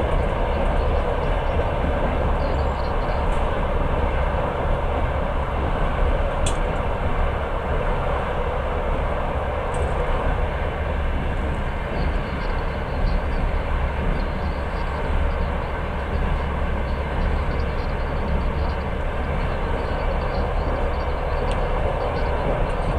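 Passenger train running, heard from inside the carriage: a steady low rumble and rolling noise of wheels on rail, with one brief sharp click about six seconds in.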